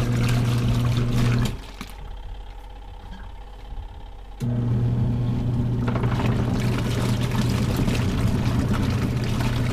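Panda portable washing machine running its wash cycle, the motor humming steadily as it churns a load of clothes in water. The motor stops about a second and a half in, leaving only the sound of water for about three seconds, then starts up again.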